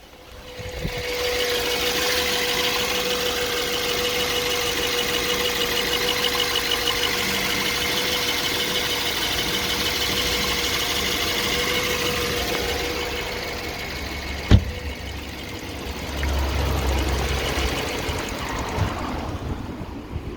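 BMW 318i's N43 four-cylinder petrol engine running, swelling about a second in to a steady level with a constant whine, then easing off about two-thirds of the way through. A single sharp click follows, then a brief low rumble.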